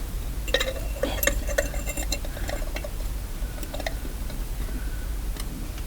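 Light clicks and taps of small hard objects being handled, bunched in the first two seconds and sparser after, over a steady low hum.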